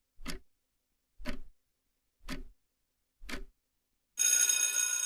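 Countdown-timer sound effect: four clock ticks about a second apart, followed about four seconds in by a bright ringing chime that marks time up before the answer.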